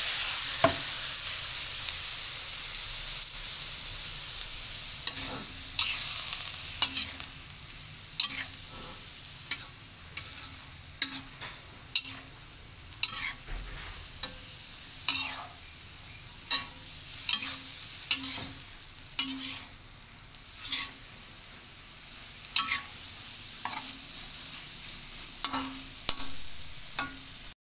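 Oyster mushrooms and egg sizzling in a hot pan with a little water just added, the sizzle loud at first and slowly fading. A metal spatula scrapes and taps against the pan about once a second as the food is stirred.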